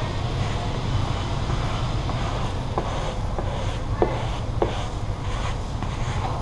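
Short squeaks of a squeegee sliding over vinyl wrap film, a few of them about three to five seconds in, over a steady low hum.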